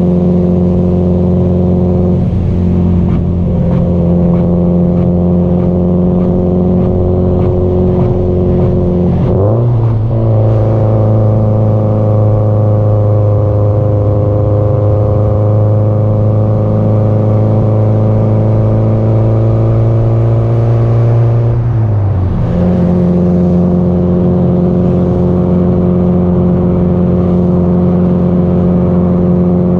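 Subaru Impreza GDB-E's turbocharged flat-four engine and exhaust running at a steady cruise. The engine note steps down in pitch about a third of the way in, sags slowly and recovers, then steps back up about two-thirds through.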